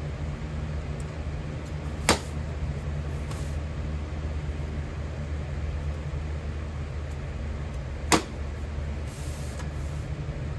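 A steady low mechanical hum, with two sharp knocks: one about two seconds in, one about eight seconds in.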